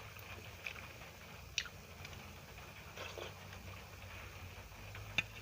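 A person eating with the mouth close to the microphone: quiet chewing with a few sharp wet mouth clicks, the loudest about a second and a half in and near the end, over a low steady hum.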